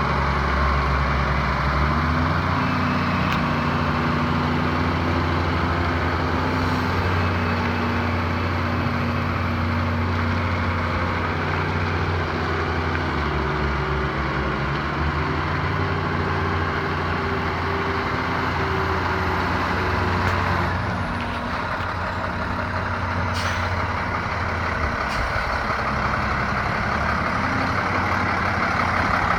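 Freightliner M2 106 dump truck's diesel engine running steadily; about twenty seconds in, the engine note changes and drops slightly, then runs on.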